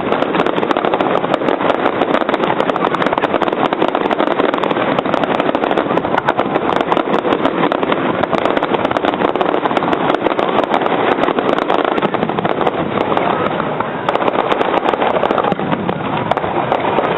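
Fireworks display: a dense, continuous crackling of many small rapid bursts, loud and steady throughout.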